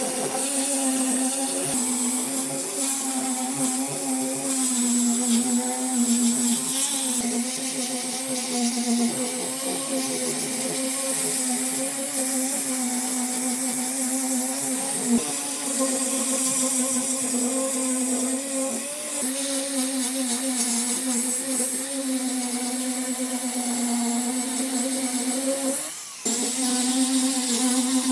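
Electric power tool motor running steadily under load, a constant hum with high-pitched hiss; near the end it cuts out briefly and then resumes.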